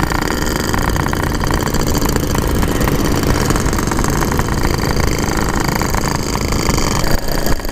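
Yamaha RX-King's two-stroke single-cylinder engine running steadily while riding, under a dense, even rush of noise.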